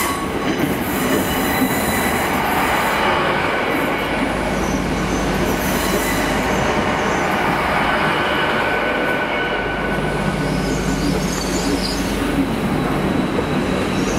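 GWR Intercity Express Train running slowly alongside the platform: a steady rumble of wheels and running gear with thin, wavering wheel squeal on the rails.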